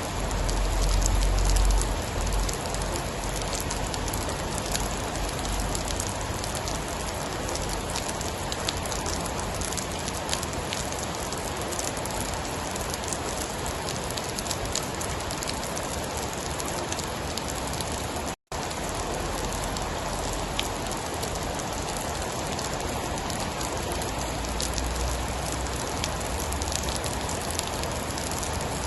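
Steady heavy rain falling on a surface, an even hiss with scattered drop ticks. A low thunder rumble swells in the first couple of seconds and comes back faintly near the end, and the sound cuts out for an instant a little past halfway.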